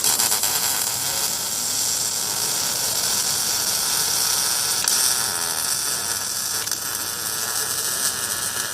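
MIG welding arc crackling steadily as a bead is laid on a steel exhaust pipe joint. It cuts off abruptly just before the end.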